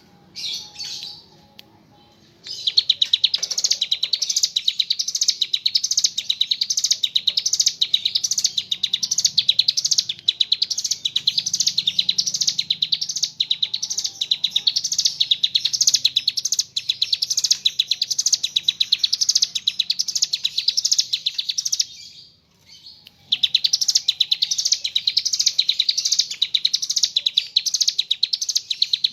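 A ciblek gunung, a mountain prinia, singing a long, fast, drilling trill of rapidly repeated high notes. After a brief call at the start it sings for about twenty seconds, pauses for about a second, then starts again.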